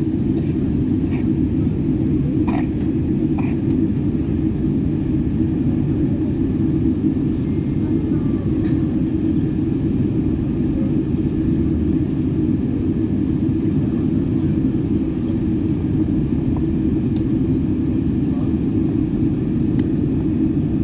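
Steady low rumble of an airliner's cabin as the plane taxis after landing: engine and air-conditioning noise heard from a passenger seat, with a few faint clicks in the first few seconds.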